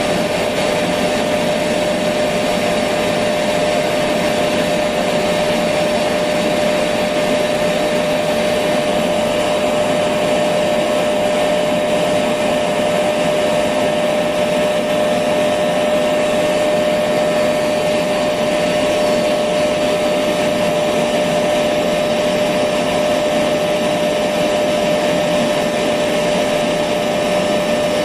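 Electric vacuum cleaner running continuously: a steady rushing of air with a constant mid-pitched whine from the motor, unchanging in level.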